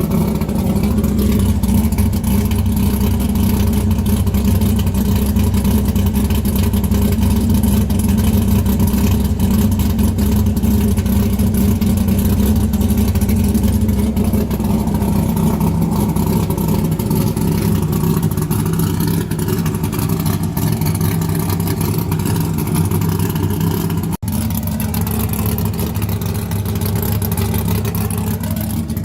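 LS V8-swapped Nissan 240SX (S14) drift car's engine idling steadily, with no revving.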